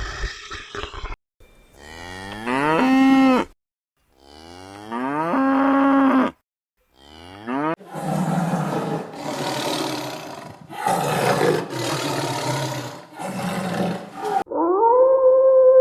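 Cow mooing: two moos of about two seconds each, rising in pitch, followed by several seconds of rougher, noisier calls broken into short pieces. Near the end a different, steady pitched sound begins.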